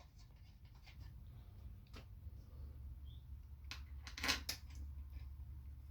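Faint scattered metal clicks and taps as bolts are set into a transmission valve body by hand, with the loudest few taps about four seconds in, over a low steady hum.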